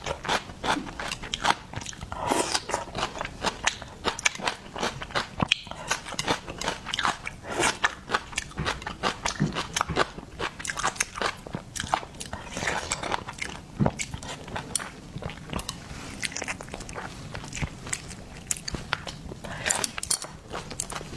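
Biting and chewing seafood, with many sharp, irregular crunches.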